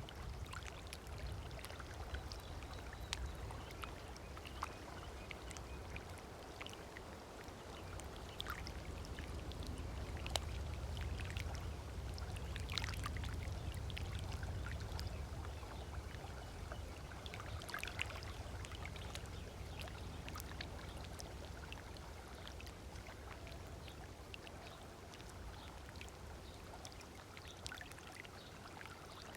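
Small waves lapping and trickling on a sandy beach, with many little splashes and a few short bird chirps. A low rumble swells through the middle and fades again.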